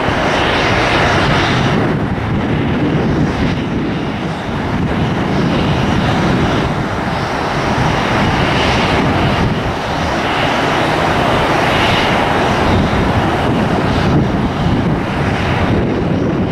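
Jet airliner engines running loud and steady, a dense rush of noise that swells and eases gently every few seconds.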